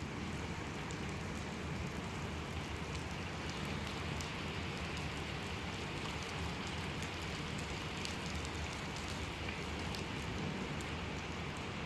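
Steady heavy rain falling on hard surfaces, with many separate drop ticks over a continuous rush.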